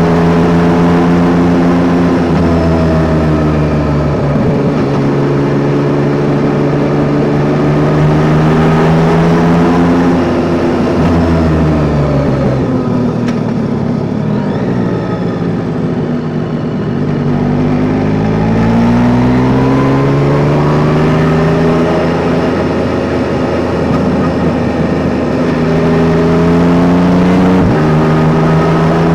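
Yamaha Tracer 9 GT's three-cylinder engine pulling at a steady note, easing off and dropping in pitch about halfway through as the bike slows, then climbing again under acceleration, over a steady rush of wind and road noise.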